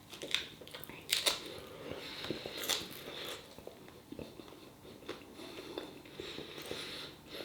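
Close-up chewing of a crunchy water chestnut from Kung Pao chicken: a few crisp crunches, the loudest about a second in and near three seconds, then softer chewing.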